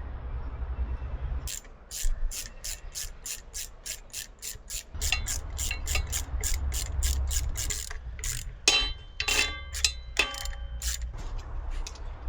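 Ratchet wrench clicking rapidly and evenly as the front brake disc screws are driven in, with a short metallic squeak over the clicks near the end.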